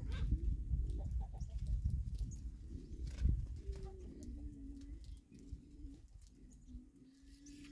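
Pigeon cooing: low, drawn-out coos in the second half, over a low rumble.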